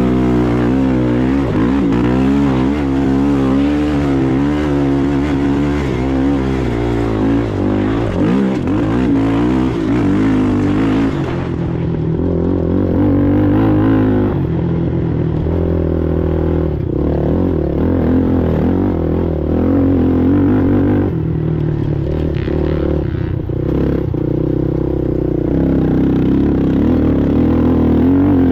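Race ATV engine running hard, its revs rising and falling continuously. A higher hiss over the engine stops about eleven seconds in.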